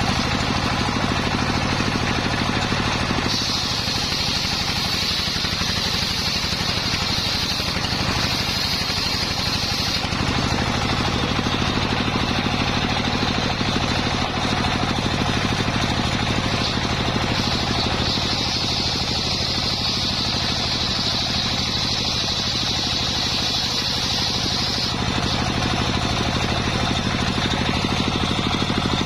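Engine of a homemade circular saw rig running steadily while it saws a coconut-palm log. A higher whine joins in for two long stretches, about seven seconds each.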